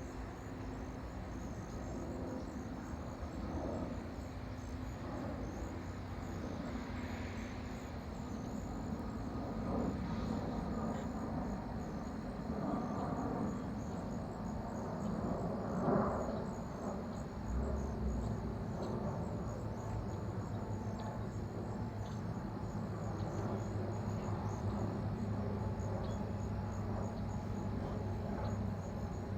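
Distant aircraft engine drone, rising slightly and falling as planes pass overhead, under a steady chorus of chirping crickets.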